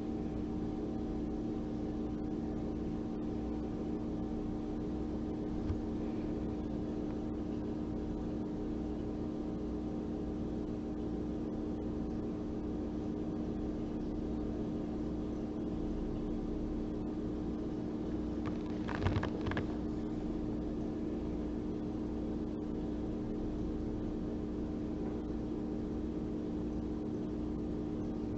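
A steady hum made of several pitched tones, like a running appliance or motor. About 19 seconds in there is a brief cluster of light clicks or taps.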